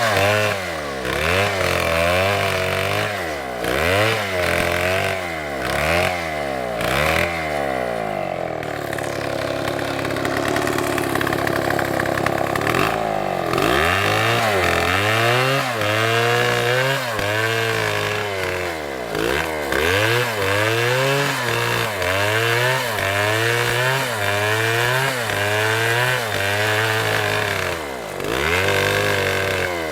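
Two-stroke STIHL chainsaw engine revving up and down over and over, about once a second, with a steadier, lower-pitched stretch in the middle before the revving resumes.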